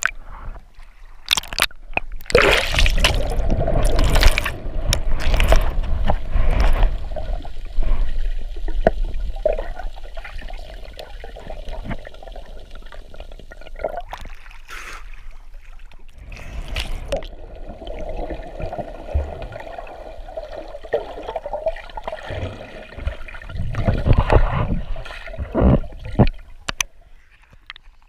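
Water sloshing and gurgling, with louder surges a couple of seconds in and again near the end.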